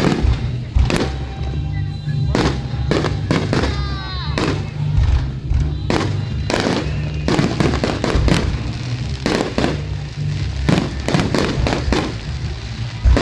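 Fireworks display finale: shells bursting in rapid, overlapping bangs, with a cluster of whistling shells about four seconds in.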